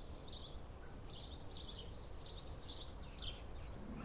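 A small bird chirping repeatedly, with short high chirps a few times a second, over a steady low background rumble.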